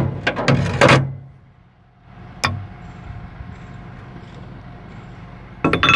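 Metal parts and tools knocking and clinking during swing-motor assembly: a cluster of knocks in the first second, one sharp click about two and a half seconds in, and a quick rattle of knocks near the end, over a steady background hum.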